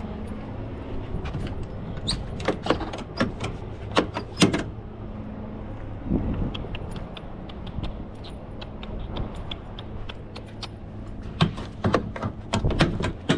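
Steady low hum of an idling semi-truck diesel engine, with sharp metallic clicks and knocks from handling the truck's parts: a cluster about two to four seconds in and another near the end.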